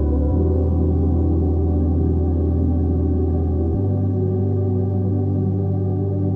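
Ambient music: sustained organ-like synth pads over a held low bass note that shifts to a new pitch twice.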